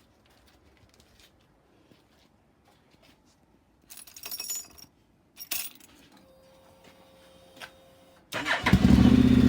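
Keys jangling twice, a faint steady hum for about two seconds, then the starter cranks and the Honda NC750X's parallel-twin engine catches near the end and settles into a steady idle, loud through an aftermarket 304 stainless steel slip-on exhaust.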